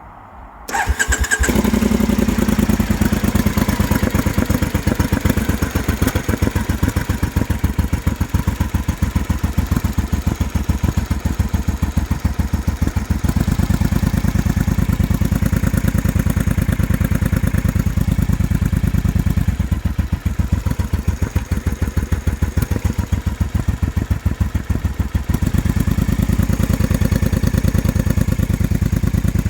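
Engine starting about a second in, then idling with a rough, uneven beat from misfiring. The rough idle is put down to a fault in the air injection system (AIS); with the AIS pipe pinched, the idle steadies.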